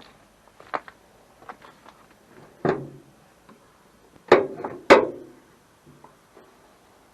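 Several sharp knocks and clanks of hard objects being handled, the loudest two about half a second apart a little past the middle.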